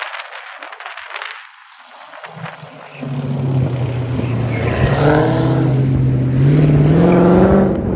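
Car engine running, its note coming in loud about three seconds in, holding steady, then rising in pitch near the end as it revs up.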